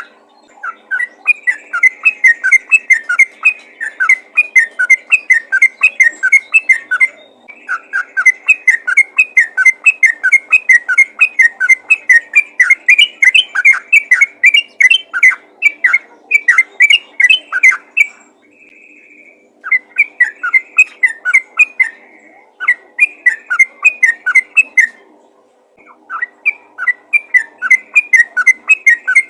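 Yellow-vented bulbul (trucukan) singing vigorously: rapid runs of loud, chattering whistled notes, several a second, in bursts of a few seconds broken by short pauses. A faint steady hum runs underneath.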